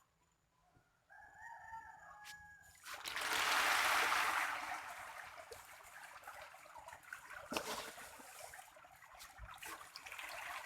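Catfish splashing and slurping at the water surface as they take their feed, with a loud surge of splashing about three seconds in that settles into steady crackling and smacking. A rooster crows once, a second in.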